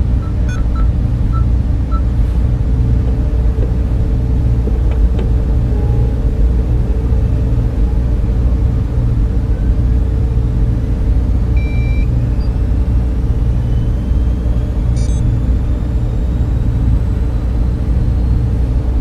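Server room cooling fans running: a steady, dense hum and rumble, with a few faint short beeps.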